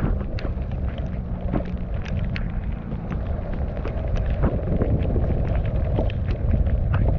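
Mountain bike descending a wet dirt trail, with wind rumbling on the camera microphone and many short, irregular clicks and rattles from the bike and its tyres over the rough ground.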